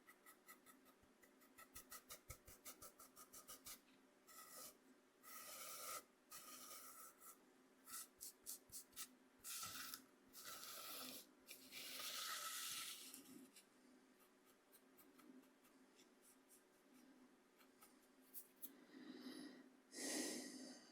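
Coarse cornmeal scraped softly across a bamboo cutting board. It starts as a quick run of short scratches, about five or six a second, then turns into longer, separate scraping strokes, the loudest one near the end.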